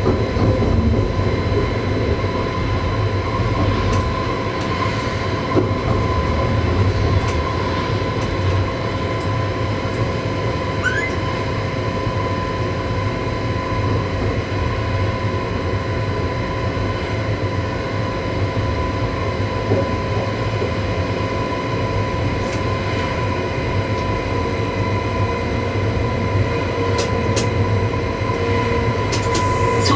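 Cab noise of an electric train running along the track: a steady low rumble with a constant high whine over it.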